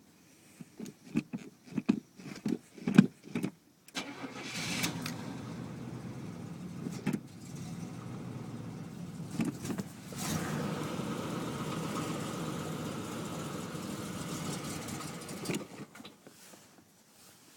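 Cold start of a 1981 Buick Electra 225's carbureted 4.1-litre V6: the starter cranks for about three seconds, then the engine catches about four seconds in and runs. It gets louder about ten seconds in, then cuts out abruptly near the end.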